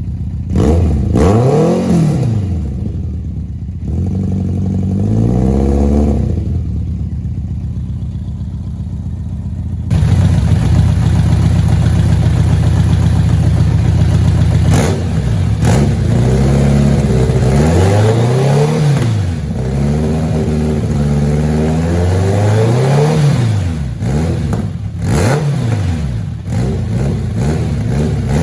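1991 BMW K1's inline-four engine revved through a full exhaust system, the throttle blipped again and again so that the pitch rises and falls every couple of seconds. About a third of the way in, the revs are held for several seconds at a louder, steady pitch before the blipping resumes.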